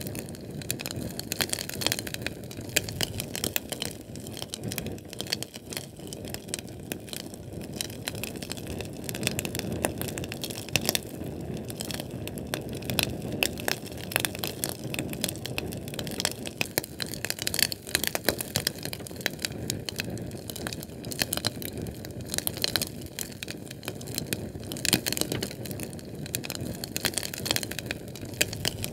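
Fire crackling, with frequent sharp pops over a steady low rush of burning flame.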